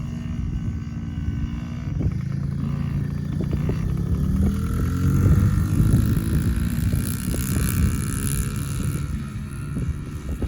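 Small youth dirt bike's engine running, its pitch rising as it speeds up between about three and six seconds in.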